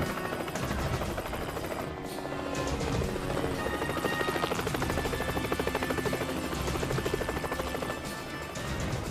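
Helicopter rotor chop, a fast even pulsing, mixed with a film's dramatic background score.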